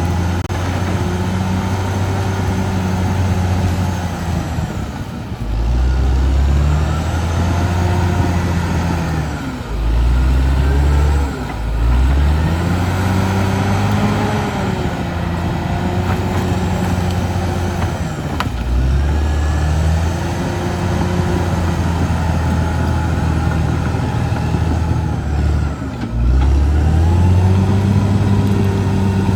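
Caterpillar D6R XL bulldozer's diesel engine working under load, its pitch sagging and recovering several times as the blade pushes, with a steady high whine over it.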